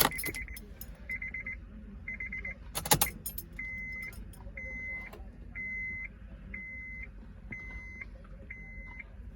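Keys jangling as the key goes into a 2002 Honda S2000's ignition, with a rattle and click about three seconds in. Around them the car's dashboard warning chime sounds: three short fluttering tones at first, then six steady beeps at one pitch, about one a second.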